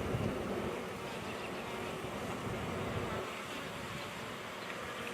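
Honey bees buzzing steadily around an opened hive during an inspection, with a low rumble under the buzz for the first three seconds.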